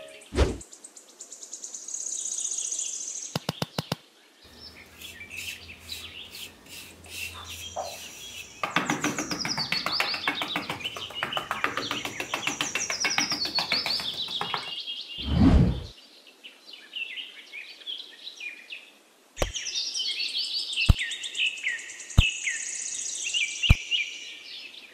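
Birds chirping in many short, quick calls. A loud thump comes about two-thirds of the way through, and four sharp knocks about a second and a half apart follow near the end.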